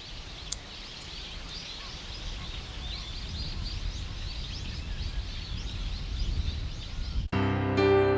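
Outdoor ambience: small birds chirping faintly over a low background rumble. Near the end it cuts off suddenly and piano music starts.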